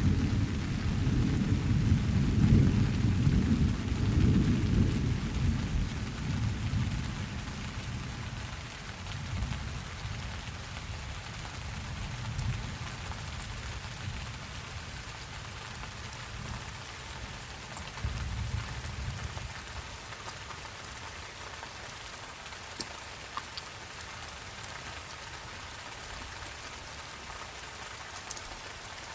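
Steady rain with a long roll of thunder that fades away over the first several seconds, and a weaker rumble of thunder about eighteen seconds in.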